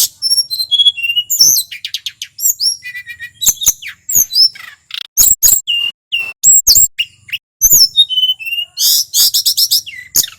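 Male tledekan gunung (a songbird sold under that Indonesian name) singing continuously in a rapid, varied run. It mixes clear whistled notes with quick chirps and fast up-and-down glides, with only brief gaps.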